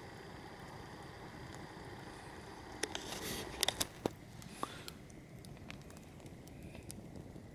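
Wood campfire burning with a soft steady crackle, and a cluster of sharp pops and a brief hiss from the burning wood about three to four and a half seconds in.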